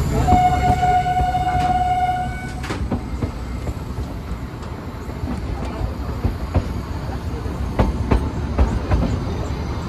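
Narrow-gauge train sounding its horn, one steady note for about two seconds. Then the train runs on with a low rumble and its wheels clicking over the rail joints.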